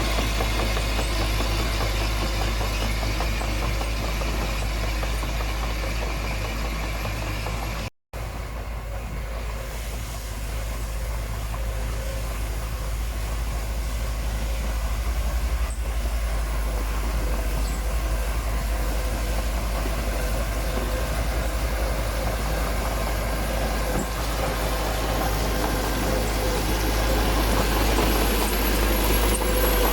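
Heavy diesel engine of a bulldozer or dump truck running steadily. The sound cuts out for a moment about eight seconds in, then carries on.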